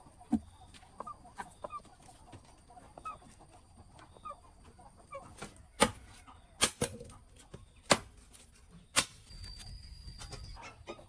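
Chickens clucking softly in short scattered calls, with four loud sharp knocks in the second half.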